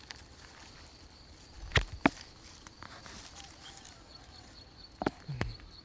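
A few sharp clicks and knocks, two close together about two seconds in and two more near the end, over a faint steady high-pitched tone.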